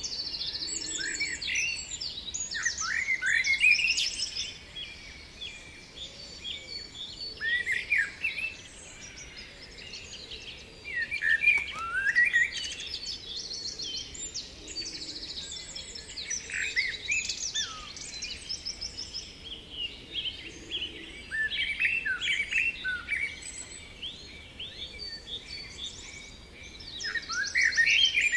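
Songbirds singing: bursts of bright chirps and fast trills that recur every few seconds.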